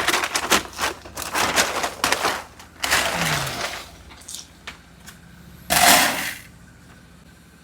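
Dry pig and sow feed being scooped and poured, a rattling rush of pellets for about four seconds. A second short pour comes about six seconds in.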